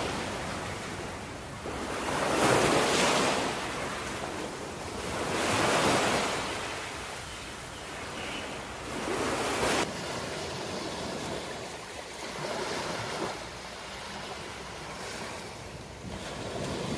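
Ocean waves breaking and washing in, swelling and fading in slow surges every three to four seconds. About ten seconds in, the sound cuts off suddenly, and softer waves follow.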